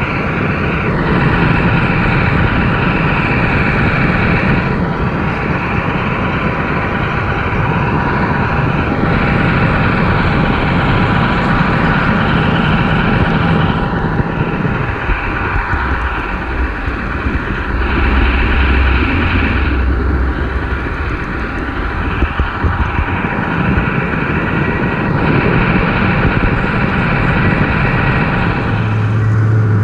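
A train running steadily: a continuous rumble and hum with a high hiss that dips briefly every few seconds.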